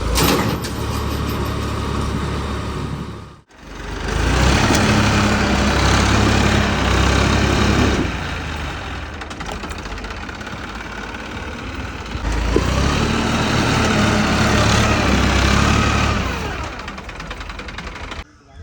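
Tractor diesel engine running hard under load, its sound swelling and easing in stretches, with a sudden brief break about three and a half seconds in.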